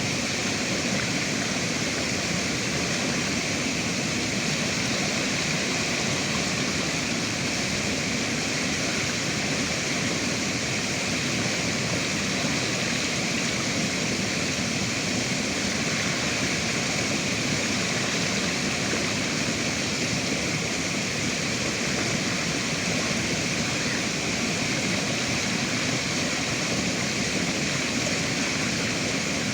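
River water rushing and babbling, a steady, even flow with no breaks.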